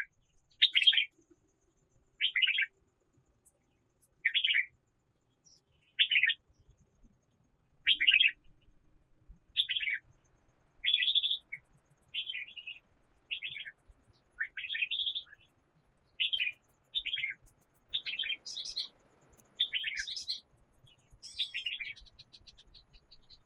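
A small bird chirping: short, bright notes repeated about every second or so, with higher, quicker notes mixed in near the end.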